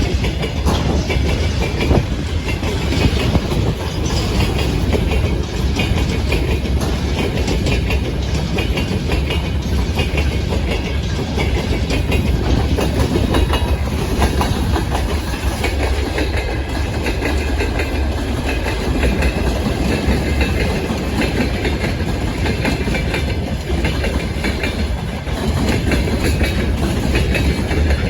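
Freight train rolling past at steady speed, its wagon wheels clattering and clacking over the rail joints above a continuous heavy rumble.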